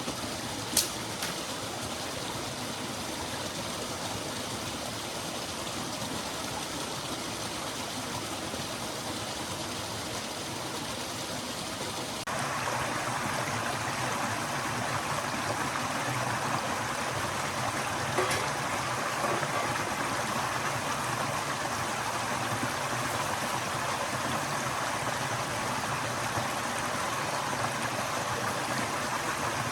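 A forest stream flowing steadily, with an abrupt jump to a louder, fuller rush about twelve seconds in. There is a sharp click just after the start and another later on.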